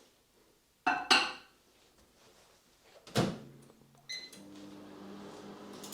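Microwave oven being loaded and started: two sharp clacks around a second in, a knock as the door is shut about three seconds in, a short keypad beep, then the oven starting up with a steady low hum.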